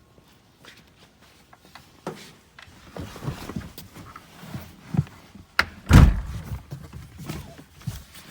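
A Ferrari Maranello's door and cabin being handled: scattered clicks and knocks, then a heavy door shut about six seconds in.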